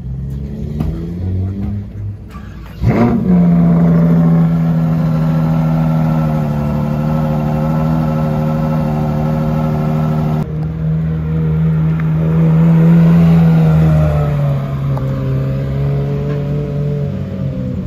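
High-performance car engine revving up, jumping about three seconds in to a loud, steady high-revving note held for several seconds, then easing slightly lower in pitch near the end.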